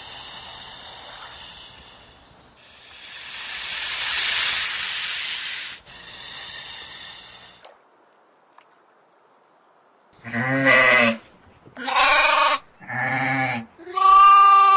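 A loud hissing noise in three stretches, then a pause, then four bleats from a goat-like animal, each under a second long, the last with a wavering tremble.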